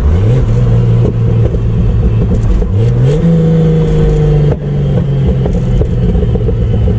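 Chevrolet Opala's turbocharged inline-six running under acceleration. The engine tone climbs twice and holds, then drops sharply about four and a half seconds in, as at a gear change.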